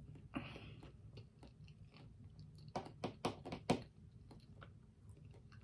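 A person chewing a mouthful of food with small wet clicks, with a run of four sharper crunches about three seconds in.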